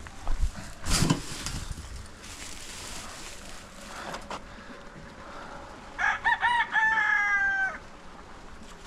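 A rooster crowing once: a few short notes, then one long held note that drops at its end, starting about six seconds in. Before that, in the first second or so, a couple of loud knocks.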